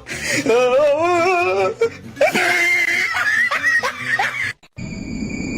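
Laughter in wavering, pulsing bursts. It breaks off suddenly near the end, and a steady high tone follows over a hiss.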